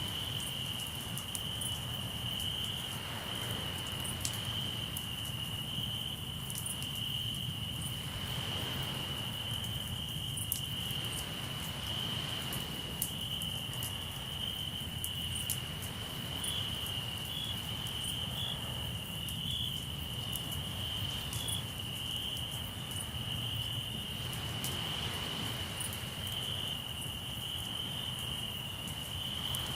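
Crickets trilling steadily at one high pitch, over the sharp pops and crackles of a campfire and soft swells of waves washing in every few seconds.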